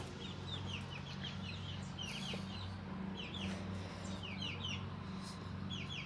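Domestic chickens clucking in a low, steady murmur, with many short, high bird chirps repeating throughout.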